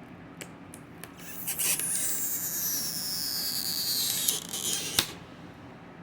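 Stretch-release adhesive strip being pulled out from under an e-reader battery: a rasping, squeaky peel lasting about three seconds, its high squeal falling steadily in pitch. It is framed by light handling clicks and ends in a sharp click about five seconds in.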